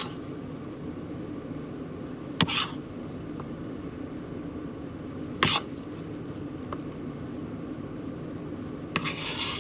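A spoon clicking and scraping as stuffing is packed into a bell pepper: two sharp clicks a few seconds apart, then a longer scrape near the end, over a steady low hum.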